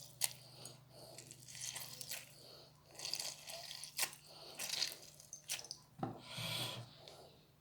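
A fresh lemon being cut with a knife and squeezed by hand through a sieve: quiet, irregular handling with a few sharp clicks and short wet, noisy stretches.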